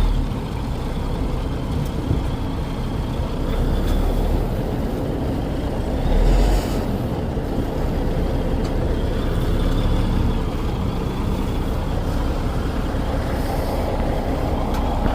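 Heavy diesel truck engine running steadily, with a brief louder surge about six and a half seconds in.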